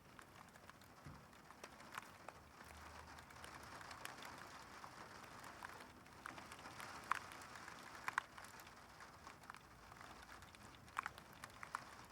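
Faint steady rain hiss with scattered sharp taps, the loudest a few seconds apart.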